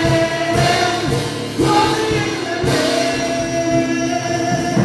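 Live gospel worship music: a group of singers holds long sung notes over the band's accompaniment.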